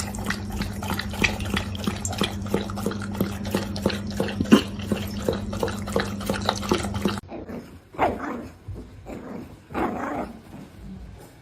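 Rapid irregular clicking over a steady hum for about seven seconds, then a dog vocalising twice, briefly, near the end.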